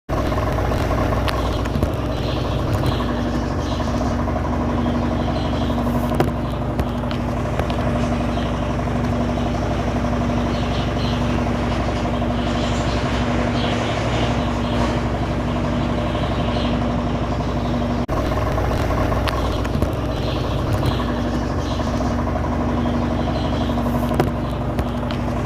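Washing machine running: a steady motor hum with a constant low tone and light clatter, unbroken apart from a brief dip about eighteen seconds in.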